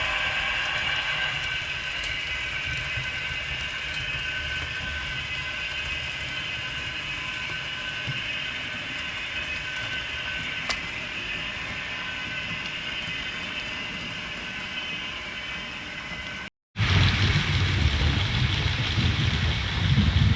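Model train running on the layout, a steady whir of its motor and wheels on the track. Near the end the sound cuts out for an instant and gives way to a louder, low rumble.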